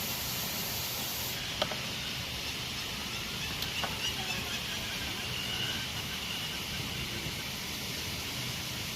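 Steady rushing of a waterfall, an even noise with no rhythm, with a couple of faint light clicks about one and a half and four seconds in.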